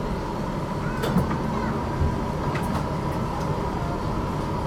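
GTL8 tram running along the track, heard from inside: a steady low rumble with a constant whine and a few short clicks.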